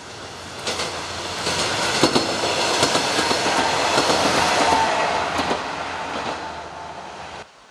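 Diesel passenger railcar passing close by, its wheels clacking over the rail joints. It builds up, is loudest in the middle, fades, and cuts off suddenly near the end.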